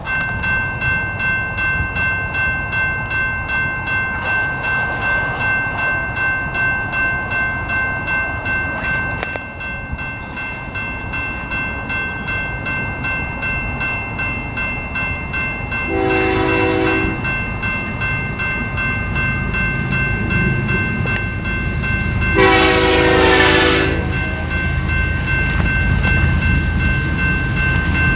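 A railroad grade-crossing warning bell rings steadily as a BNSF diesel freight train approaches, its low rumble building. The locomotive horn sounds twice: a short blast about sixteen seconds in and a longer, louder blast about six seconds later.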